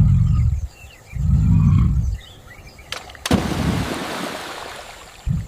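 Two deep lion roar-grunts, each about a second long, followed about three seconds in by a sudden loud rushing noise that slowly fades, with faint bird chirps in the background.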